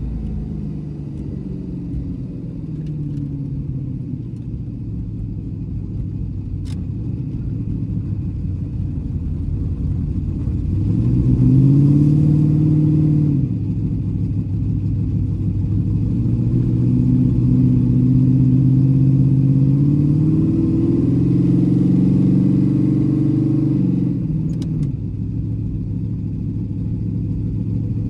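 A Chrysler Imperial drag car's small-block Mopar 318 V8 heard from inside the cabin, driven under light throttle. Its note rises about eleven seconds in and drops a couple of seconds later, then climbs again for several seconds and falls back near the end.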